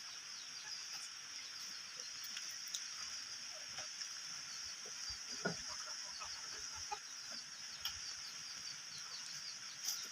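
Faint chickens clucking now and then, over a steady high-pitched insect trill.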